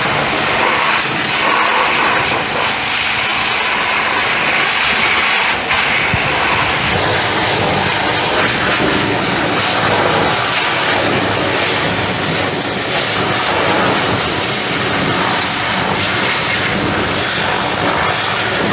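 Pressure washer's high-pressure water jet spraying against the tractor, a loud steady hiss.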